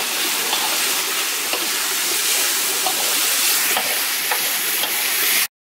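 Minced chicken larb sizzling in a hot wok as it is stir-fried, with a metal spatula scraping and tapping against the pan now and then. The sound cuts off abruptly near the end.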